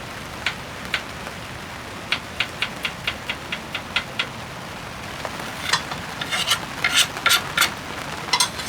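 Steady rain hiss, with a run of light sharp clicks and clinks, then louder clustered clatter in the second half, like utensils or gear being handled.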